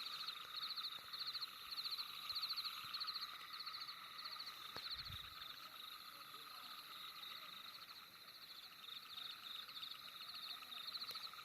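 Night chorus of frogs: short, high trilled chirps repeating about twice a second over a steady high-pitched calling drone.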